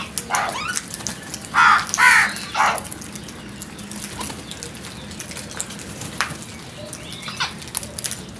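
Crows cawing: four loud, harsh caws in quick succession during the first three seconds, then a fainter caw near the end.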